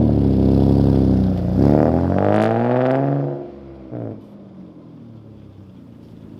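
BMW E36 engine through a freshly fitted aftermarket exhaust with the primary muffler and resonator deleted, revved: it rises in pitch about two seconds in, falls back, then drops to a much quieter idle with one short blip of the throttle at about four seconds.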